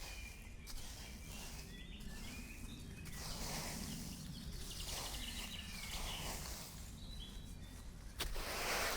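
Birds chirping now and then over a steady low rumble, with several louder noisy swells; the loudest comes near the end.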